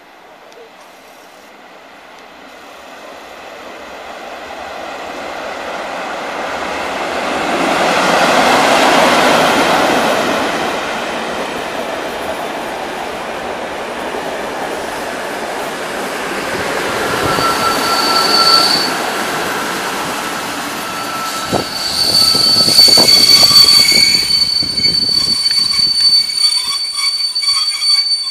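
A train passing on the tracks, building to its loudest about eight to ten seconds in. In the second half its wheels squeal in high, steady tones, with a few clacks of wheels over the rail joints.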